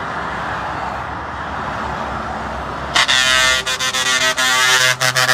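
Steady motorway traffic noise. About three seconds in, a passing lorry's multi-tone air horn sounds loudly for about two and a half seconds.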